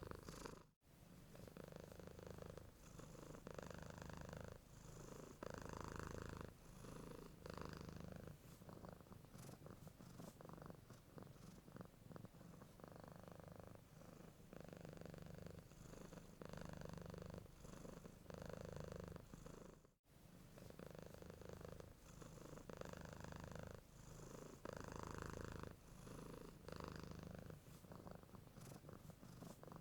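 Domestic cat purring, a quiet low rumble that swells and fades with each breath, roughly once a second. The sound cuts out completely for a moment twice, just under a second in and about twenty seconds in.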